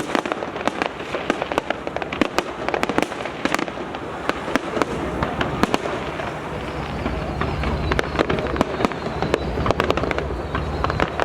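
Fireworks display going off: a dense, continuous run of sharp bangs and crackles, many a second, with a steady low rumble building underneath from about halfway.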